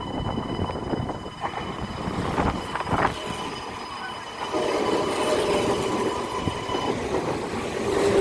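A train running through the station, growing louder about halfway through, with a steady rumble and thin high squealing tones from the wheels on the rails.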